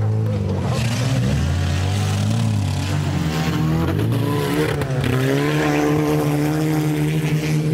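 Small hatchback cars' engines revving hard on a muddy off-road track, the pitch rising and falling with the throttle as more than one engine overlaps. From about five seconds in, a steadier held engine note settles in.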